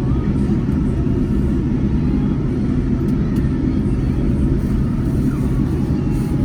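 Steady low rumble heard inside the passenger cabin of a Boeing 787-10 as it taxis, from the engines and the aircraft rolling along the taxiway.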